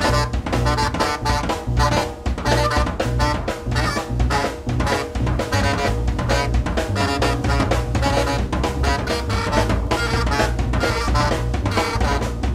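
Free jazz trio of saxophone, drum kit and double bass playing together: fast, dense drum strokes under a busy saxophone line and a low bass part.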